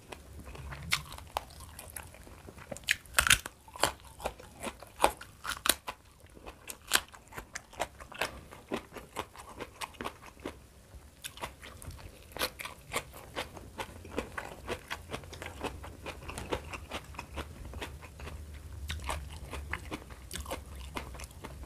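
Close-up crunching and chewing of fried petai (stink beans): irregular sharp crunchy bites, sometimes several a second, between softer chewing, the loudest crunches a little after three seconds in.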